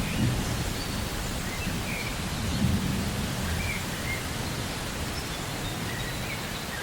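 Rainforest soundscape of steady rain, with low rumbles of thunder near the start and again about two and a half seconds in, and a few short, faint bird chirps.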